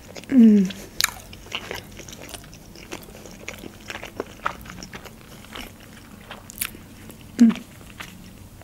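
Close-miked chewing of a mouthful of sushi roll, with many small wet mouth clicks. Two short hums with falling pitch come from the eater, about half a second in and again near the end.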